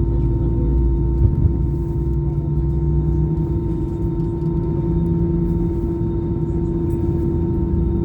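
Airbus A320 cabin noise with the engines running: a steady drone with a held hum and a low rumble that eases about three seconds in.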